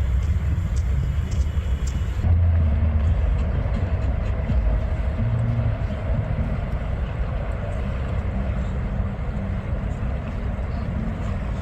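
City street ambience: a steady low rumble of traffic with a fainter hiss above it. About two seconds in, the hiss drops away abruptly and the rumble briefly swells.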